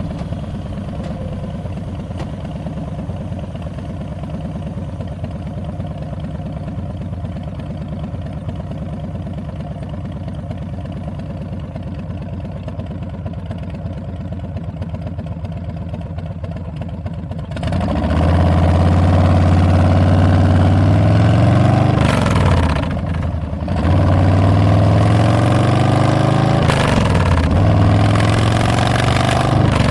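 2022 Harley-Davidson Street Bob's Milwaukee-Eight 114 V-twin through Tabs Performance slip-on mufflers with Zombie baffles. It idles steadily for about seventeen seconds, then gets much louder as the bike pulls away. Its pitch climbs and drops back briefly at each of several gear changes.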